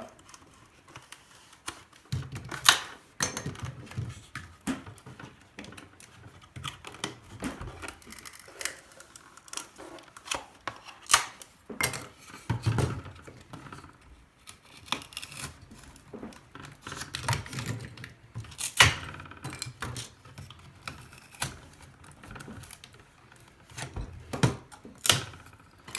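Knife cutting and prying away balsa wood from a welding hood's balsa box: irregular cracks, clicks and scraping as the wood splits off at the veneer.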